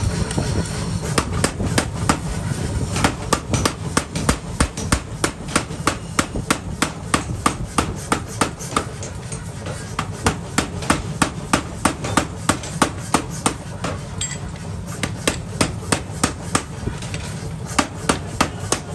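Hammer blows on hot steel at an anvil while an axe is being forged, a steady run of about two to three strikes a second with a few short pauses, over a steady low rumble.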